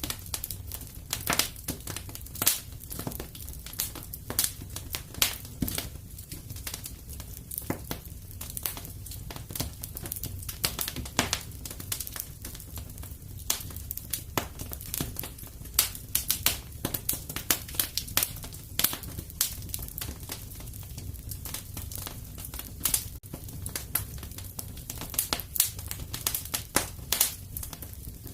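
Wood fire in a fireplace crackling: frequent, irregular sharp pops and snaps over a low, steady rumble.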